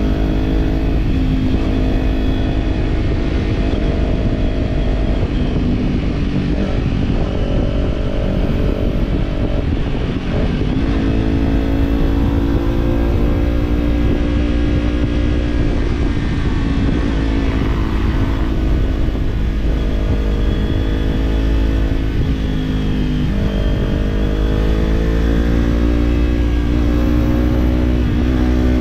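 Kawasaki parallel-twin motorcycle engine with an Orion Katya slip-on exhaust, running under way at steady cruising revs over a low rumble of wind and road noise. Twice, about ten seconds in and again past twenty seconds, the engine note drops and then climbs back up, as with a throttle change or gear change.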